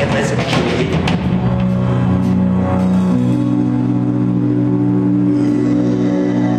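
Live band music with no vocals: drum hits over the first second, then low sustained notes held without a beat.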